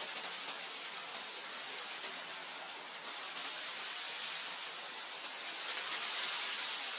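Wind blowing through grass: a steady hiss that swells a little near the end.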